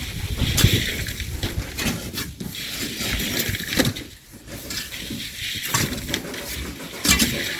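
Irregular scrapes and knocks of hand tools working sand, with gritty scraping between the strikes.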